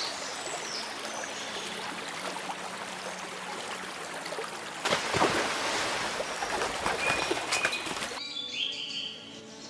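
Wetland ambience of running water with scattered bird chirps. About five seconds in, a louder rushing, splashing noise takes over for about three seconds, then the water fades and short bird calls sound near the end.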